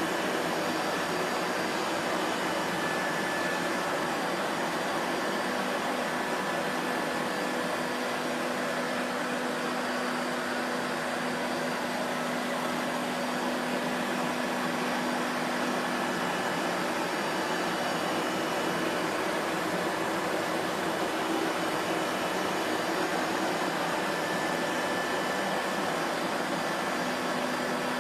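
Vacuum cleaner motor running steadily: a constant rushing whir with a faint hum of motor tones underneath and no change in pitch.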